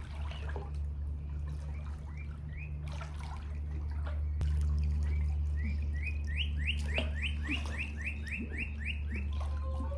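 A bird giving a quick series of short rising chirps, about four a second, over a steady low hum. A few chirps come first, then a longer run in the second half.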